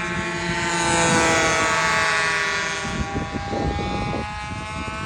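Control-line model airplane's small engine running at a steady high pitch, its note swelling and wavering slightly as the plane circles. There is some low buffeting noise about three seconds in.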